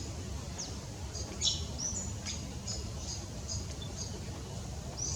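Eastern yellow robin calling: a few sharp high chirps, then a run of short, evenly repeated piping notes at about three a second, with one more chirp near the end. A steady low rumble of background noise lies underneath.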